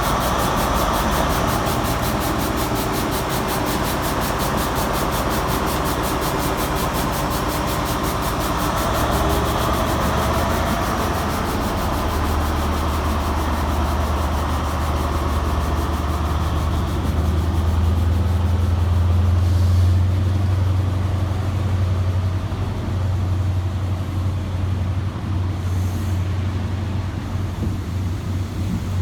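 Diesel engines of a ScotRail HST's Class 43 power cars running with a steady low drone. The drone grows louder through the middle and stays strong toward the end.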